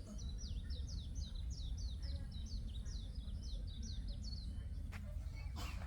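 A songbird singing a rapid run of short, downward-sliding chirps, about four a second, that stops about four and a half seconds in, over a steady low background rumble. Two short clicks near the end.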